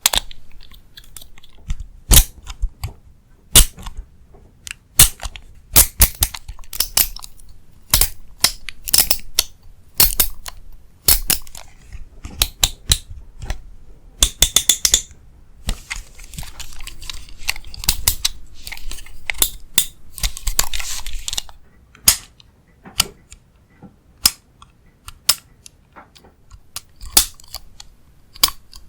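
Close-miked ASMR tapping and clicking on small objects in an irregular rhythm, with a few stretches of scratchy rustling near the middle.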